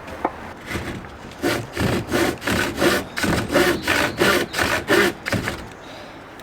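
Hand saw cutting through a wooden beam with quick, even back-and-forth strokes, two to three a second, stopping near the end.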